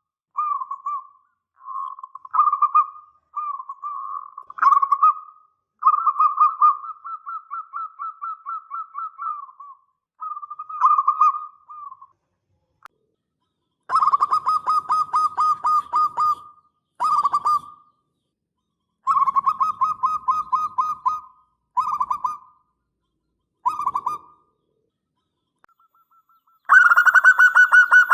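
Zebra dove (perkutut) cooing in a string of phrases, each a quick run of rolling repeated notes, with short pauses between them. One phrase, about six seconds in, runs on for about four seconds. From about halfway, the phrases come louder and brighter.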